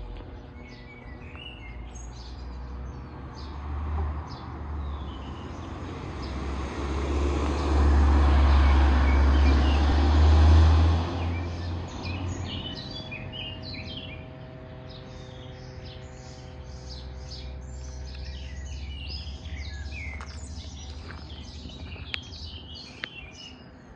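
Small birds chirping and singing, scattered at first and then many overlapping calls in the second half. Near the middle a louder rushing noise with a deep rumble builds over a few seconds, peaks and fades away.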